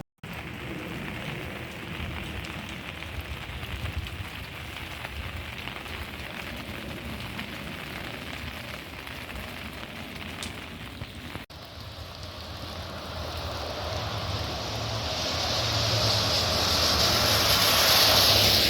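Steady rain falling, heard as an even hiss. After a cut about eleven seconds in, a broad rushing noise swells and is loudest near the end.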